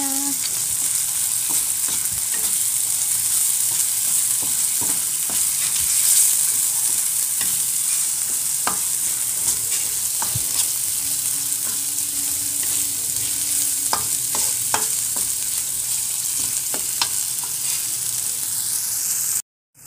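Ground chili-and-shallot spice paste sizzling steadily as it fries in hot oil in a metal pan, with a metal spatula scraping and clicking against the pan as it is stirred. The paste is being fried until fragrant, before the gizzards go in. The sound cuts out abruptly just before the end.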